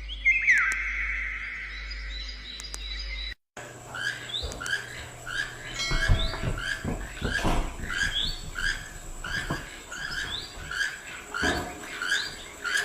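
For the first three seconds, intro music with a falling tone; then, after a sudden cut, a bird calling over and over in short, upward-hooked chirps, about one and a half a second, with a faint steady high whine behind.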